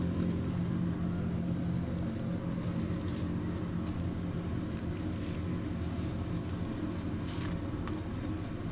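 A steady low hum with a few faint soft rustles or taps over it.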